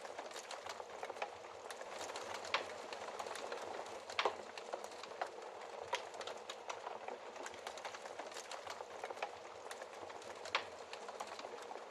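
Wood fire crackling in a fireplace: a steady hiss with many small snaps and a few louder pops, the loudest about four seconds in.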